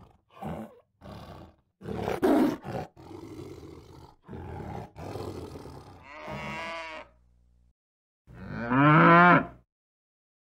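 A tiger growling and snarling in a string of short, rough bursts, then a cow mooing once, loudly, about eight seconds in.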